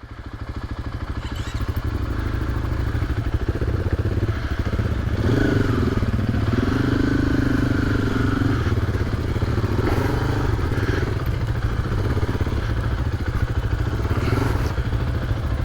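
KTM 500 EXC single-cylinder four-stroke dirt bike engine running, building up over the first couple of seconds and then holding steady.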